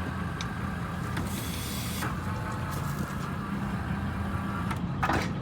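Diesel truck engine running steadily, driving the truck-mounted crane as it lifts an axle, with a short hiss about a second and a half in.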